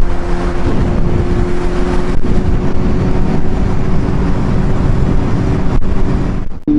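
Kawasaki Z800 inline-four motorcycle engine running at a steady cruise, heard from the rider's helmet mic under heavy wind rush. It cuts off suddenly near the end.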